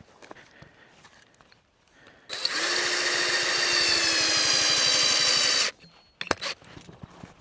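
A handheld electric power tool runs for about three and a half seconds, starting and stopping abruptly, its motor pitch sagging slightly as it runs. A couple of sharp knocks follow near the end.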